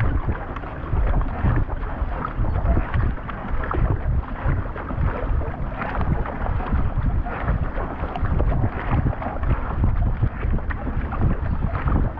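Nelo Vanquish K1 racing kayak under way: water rushing and splashing with the repeated paddle strokes, over steady wind buffeting on the action-camera microphone.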